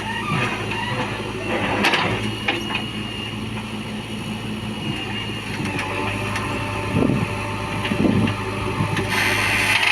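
Heavy diesel engine running steadily at a constant pitch, with a few knocks, and a louder burst of noise near the end.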